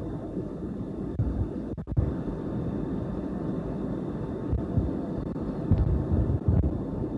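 Cabin noise aboard a Boeing 757-200 airliner: a steady rumble of engines and airflow with a faint high whine, and low uneven thuds swelling about six seconds in.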